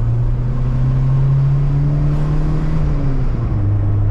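Volkswagen Mk2's engine heard from inside the cabin while driving, its note rising in pitch as the car accelerates, then dropping about three seconds in, over steady road rumble.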